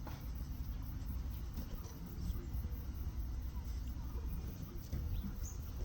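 Footsteps on a path, irregular soft thuds over a steady low rumble.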